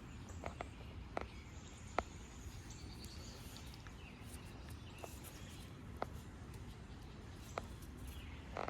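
Quiet backyard ambience with small birds chirping faintly and a few scattered sharp clicks or taps, the loudest about two seconds in.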